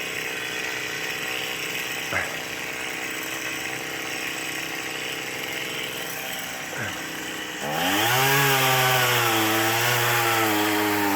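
Gas chainsaw running at a low, steady speed with a few quick throttle blips, then revved up hard about eight seconds in and held there, its pitch dipping and recovering as it works under load in the wood.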